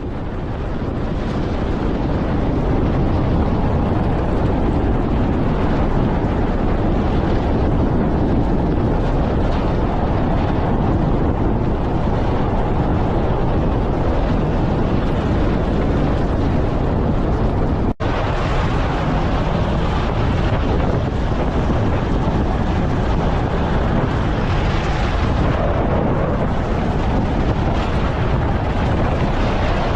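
Campfire burning: a steady, dense rush of fire noise that fades in at the start, with a brief break about 18 seconds in.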